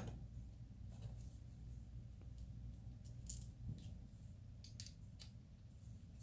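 Scattered light clicks and taps of small metal injector parts being handled by hand, over a low steady hum.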